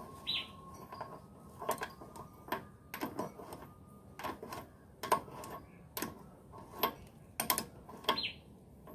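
Irregular clinks and knocks of hand tools on metal, a dozen or so sharp taps at uneven intervals, with a short bird chirp near the start and another near the end.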